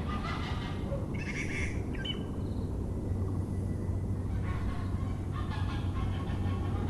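Domestic geese honking in four rough calls, two near the start and two more a few seconds later, over a steady low background hum.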